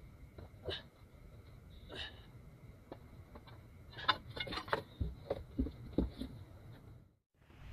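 Scattered clicks and knocks, thickest from about four to six seconds in, over a faint steady high tone; the sound drops out briefly near the end.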